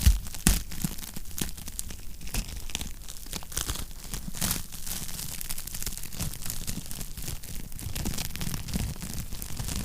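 Wood fire burning in a fireplace: a steady run of crackles and snapping pops over a low rumble of flames, with two louder pops in the first second.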